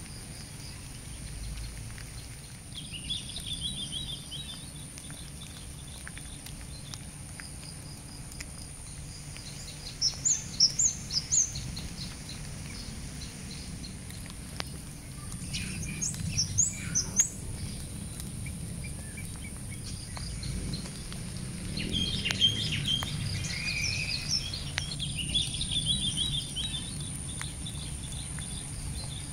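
Birds chirping and calling in short phrases, with loud sharp high notes about ten seconds and sixteen seconds in and a busier stretch of song near the end, over a steady thin high-pitched drone.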